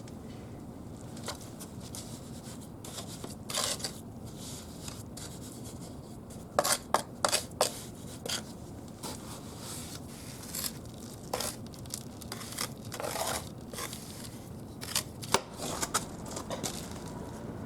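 Cement mortar being worked for bricklaying: short scrapes and clicks of a tool against wet mortar and brick, a few each second, with a cluster of louder ones about seven seconds in and another near the end.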